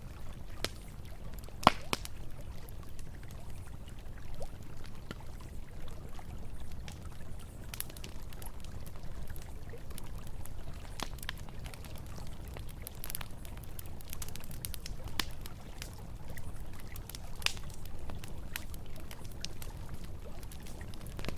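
Campfire crackling, with scattered sharp pops of burning wood and one louder pop near the start, over a steady low rush of flowing river water.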